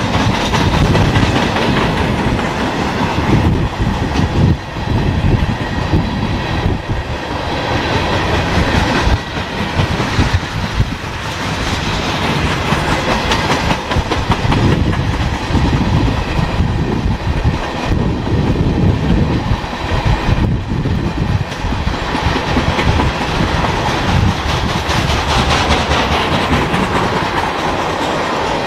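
A mixed freight train's cars, mostly tank cars and covered hoppers, rolling past at close range: a loud, steady rumble with a continual run of wheel clacks on the rails.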